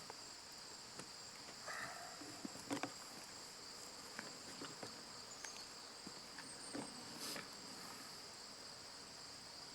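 Insects, likely crickets, trilling steadily and high-pitched, with a few faint clicks and rustles.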